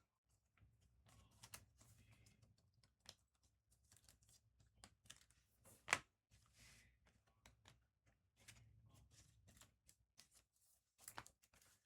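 Faint handling of trading cards: soft scattered clicks and rustles as cards are slid and flipped through, with one sharper tap about halfway through.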